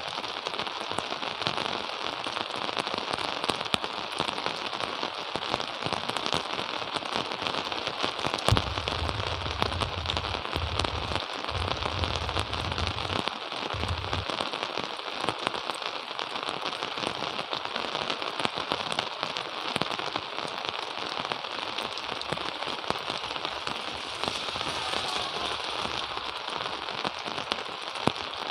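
Steady rain falling, a dense patter of many small drops. A low rumble sets in with a sharp knock about a third of the way through and fades out about halfway.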